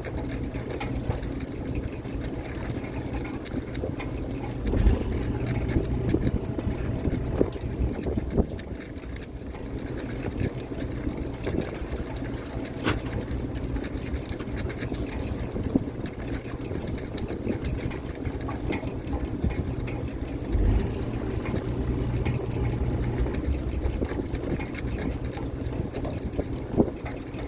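Fishing boat's engine running steadily, with a few knocks and thumps over it.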